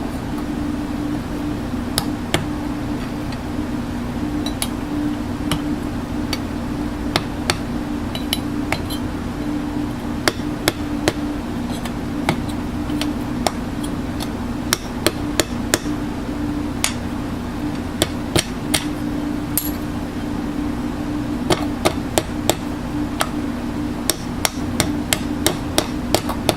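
Sharp metallic taps at irregular intervals, like light hammering on metal, coming in quick clusters near the end, over a steady low machine hum.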